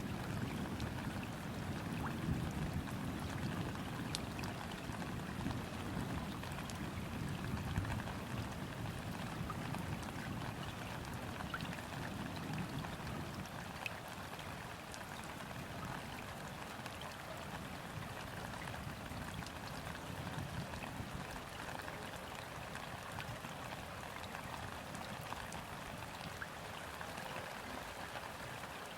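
Gentle steady rain falling onto a river's surface, countless fine drops ticking on the water. A low rumble of distant thunder dies away over the first ten seconds or so.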